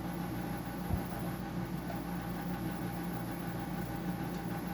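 Steady low machine hum with a faint hiss, even throughout, with a single soft low thud about a second in.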